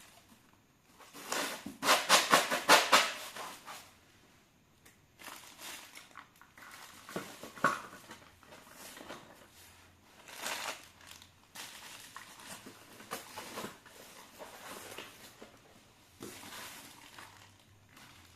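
Packaging being handled and unwrapped: irregular rustling and crinkling, loudest in a run of quick scratchy strokes about one to four seconds in, then quieter bursts on and off.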